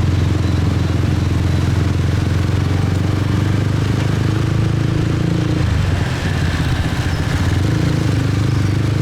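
Motorcycle engine running steadily while riding in city traffic. The engine note drops away briefly about six seconds in, then picks up again.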